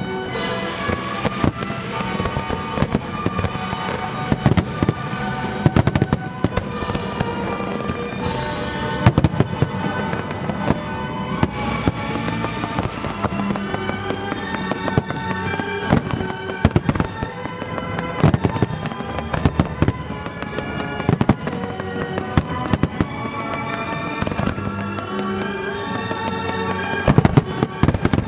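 Aerial fireworks bursting again and again over the show's accompanying music, with a dense flurry of bangs near the end.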